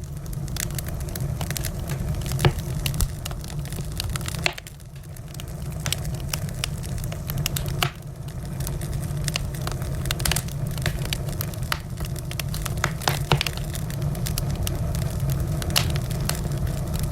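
Wood fire crackling: irregular sharp pops and snaps over a steady low rumble of burning, with a few louder pops and the level dipping briefly twice.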